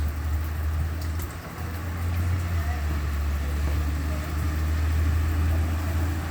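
A vehicle engine running with a steady low hum, over a haze of rain and road noise.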